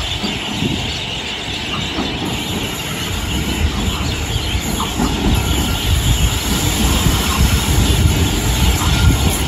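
Train running on the rails: a steady noisy rumble that grows heavier and louder through the second half, with a few faint clicks from the wheels.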